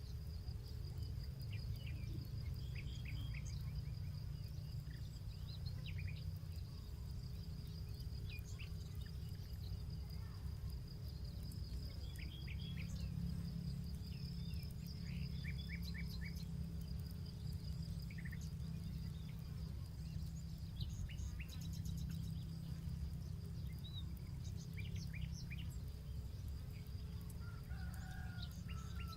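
Paddy-field ambience: small birds chirping in short, scattered calls over a steady high insect drone and a low rumble, with a rooster crowing briefly near the end.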